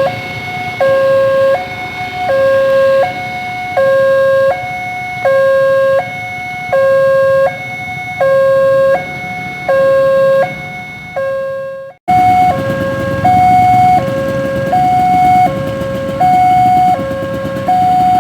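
Railway level crossing warning alarm: an electronic two-tone signal alternating evenly between a lower and a higher note, about 0.7 s each, sounding while the barriers are down to warn of an approaching train. Road traffic rumbles underneath; about twelve seconds in there is an abrupt cut, after which the alarm goes on with louder traffic noise.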